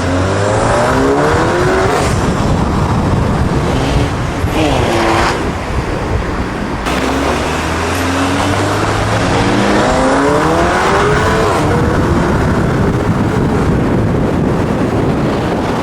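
Car engine revving hard, its pitch climbing in repeated sweeps, with a quick drop and climb about five seconds in.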